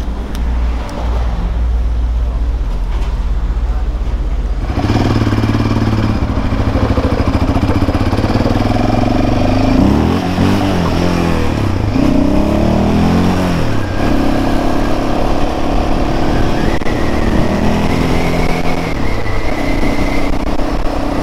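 Yamaha Raptor quad's engine ticking over low, then pulling away about five seconds in and running under throttle, its pitch falling and rising several times as the revs change.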